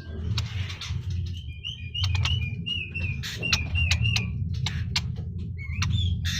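Scaly-breasted munias (burung peking) chirping: a quick run of short, wavy chirps, about three a second, for a few seconds in the middle, over scattered sharp clicks and a steady low hum.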